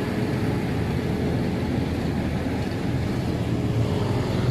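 A heavy vehicle's engine runs steadily with a low rumble and a faint held tone.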